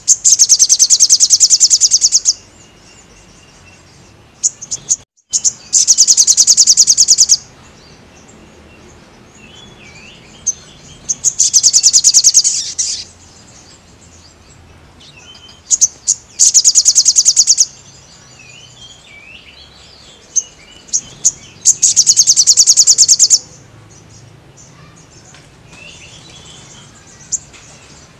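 Sogon sunbird singing: five loud, very fast high-pitched trills, each lasting one to two seconds and coming about every five seconds, with soft twittering chirps in between.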